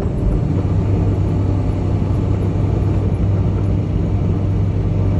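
Semi truck's diesel engine running steadily at highway cruise, a constant low drone with road rumble.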